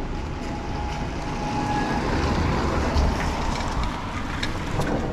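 A car driving past on the road, loudest about three seconds in, with wind rumbling on the microphone.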